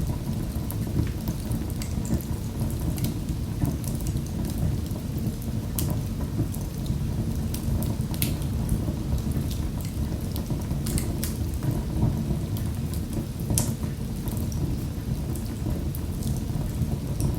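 Wood fire crackling in a fireplace: a steady low rumble of burning with frequent sharp pops and snaps scattered throughout.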